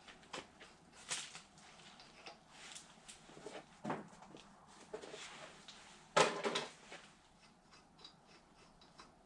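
Scattered knocks, clunks and scrapes of metal parts and tools being handled while a seized engine cylinder is set up for pressing, with the loudest clatter about six seconds in.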